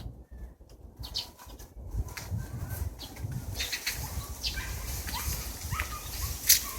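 Birds in a park: rustling wing flaps and a few short chirps, with a sharp crack near the end.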